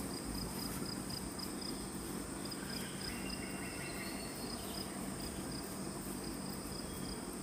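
Insects chirring in the forest: one steady high-pitched drone under a second, pulsing trill.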